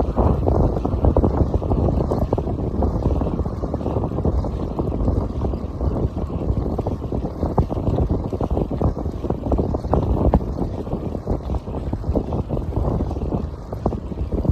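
Wind buffeting the microphone on a moving motorbike, a steady, dense rumble of rushing air and road noise.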